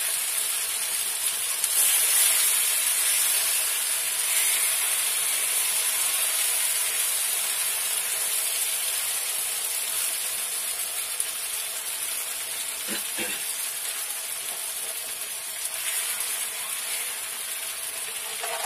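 Goat brain masala sizzling in hot oil in a nonstick frying pan as it is stirred and cooked down (bhuna) to drive off the raw smell, a steady hiss. A light knock about two-thirds of the way in and a sharper knock at the very end.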